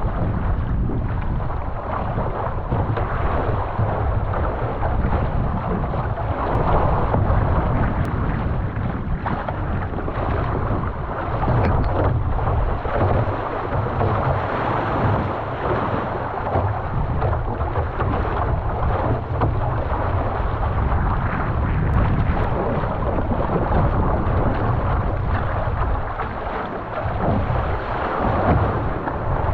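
Wind buffeting the microphone over rushing, splashing water as a canoe is paddled upwind on the open ocean. The noise is steady, with no distinct strokes or knocks standing out.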